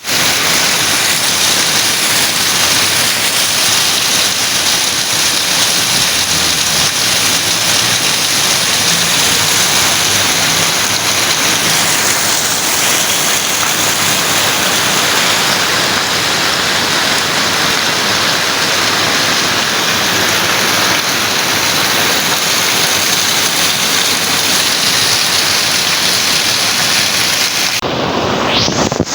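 Rain pouring steadily, a loud even hiss. About a second before the end the sound changes abruptly and the highest hiss drops away.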